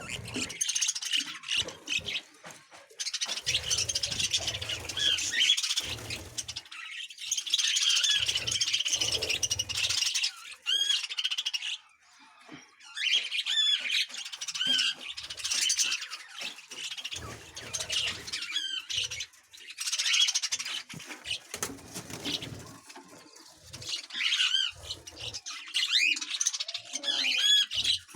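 A group of budgerigars chattering and squawking: fast, overlapping chirps and warbles in bursts with a brief lull partway through, over occasional low rumbles.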